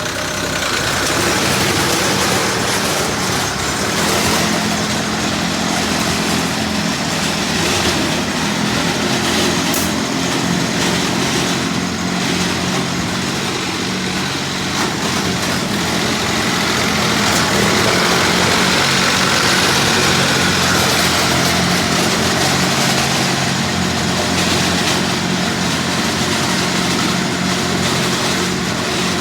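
Engine of a 3-ton mini crawler dumper running steadily, a steady hum with an even rushing noise over it that swells slightly now and then.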